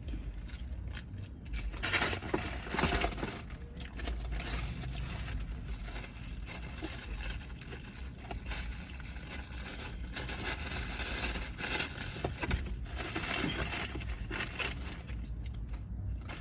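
A person eating a fried chicken meal with a biscuit: irregular chewing, crunching and handling noises over a steady low hum.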